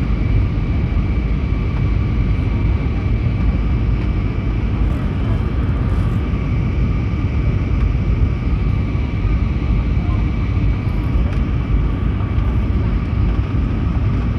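Steady cabin noise inside an Airbus A320neo: a deep, even rumble of engines and airflow with a thin, steady whine above it.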